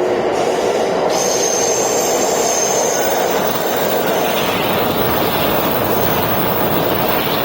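Electric passenger train running along the track close by, a loud steady rush of wheels on rail. A faint high whine shows briefly about a second in.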